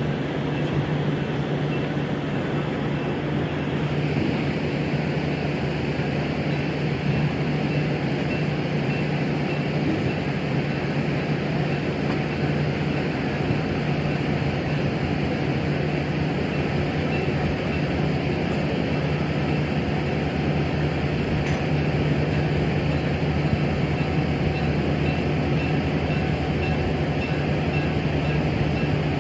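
Passenger train car rolling along the track: a steady rumble and rushing noise with a constant low hum.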